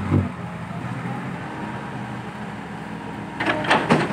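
Dump truck engine running steadily as the truck pulls, with a louder burst right at the start and a brief cluster of loud noise near the end.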